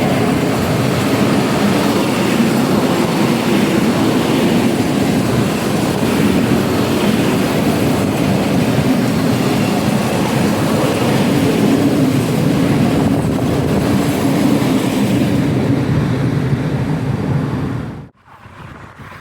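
A train running past close by: a loud, steady noise of wheels on the rails that cuts off abruptly about eighteen seconds in, leaving much quieter wind-like noise.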